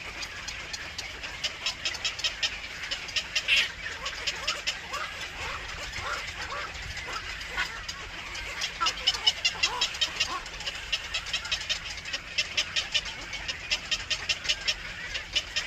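Runs of rapid, short, high-pitched chirps from young birds at the nest, the begging calls of nestlings, with one louder call about three and a half seconds in.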